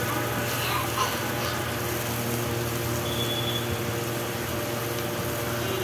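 Sliced pointed gourd frying in oil in a kadai while it is stirred with a spatula, with a light sizzle and a couple of faint scrapes about a second in. Under it runs a steady low mechanical hum.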